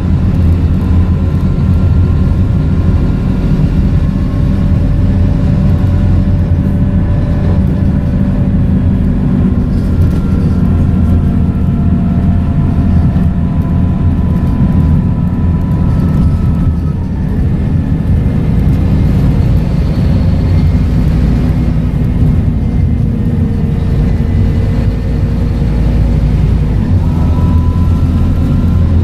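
Scania K230UB single-decker bus running under way, its five-cylinder diesel and ZF automatic gearbox heard throughout, with a gearbox whine that rises and falls as the speed changes.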